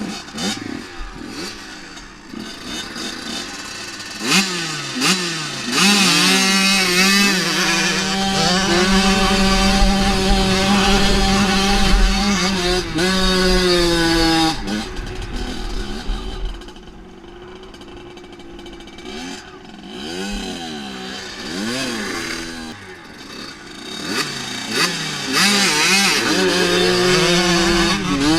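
Dirt bike engine revving in short blips, then held at high revs for several seconds under throttle. It drops off about halfway, revs up and down a few more times, and climbs to high revs again near the end.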